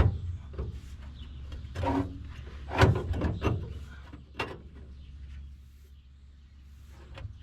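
Sheet-metal panel being handled and set into place: a few sharp knocks and clatters, the loudest about three seconds in, then quieter handling and scraping.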